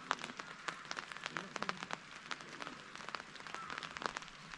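Rain falling, with individual drops striking close by as sharp, irregular ticks, several a second, over a steady faint hiss.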